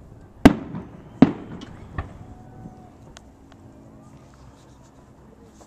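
Aerial firework shells bursting overhead: two loud bangs about three-quarters of a second apart, then a smaller one, each followed by a rolling echo, with a few faint pops after.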